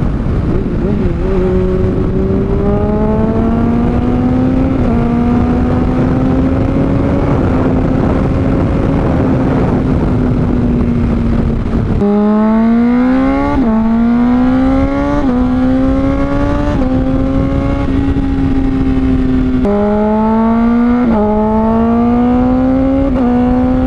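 Honda CBR600RR inline-four running through a Toce aftermarket exhaust under way, with wind rushing over the microphone. In the first half the engine note climbs slowly. In the second half it rises and drops sharply again and again, about every second and a half: quick clutchless upshifts made with a quickshifter.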